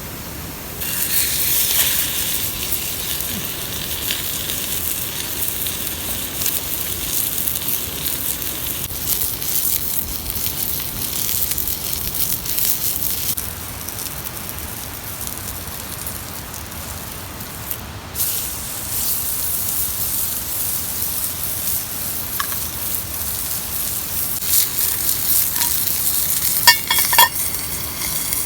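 Food sizzling on a hot iron griddle over a wood campfire, a steady hiss with fine crackling. It softens for a few seconds in the middle, and there are a few light metallic clinks near the end.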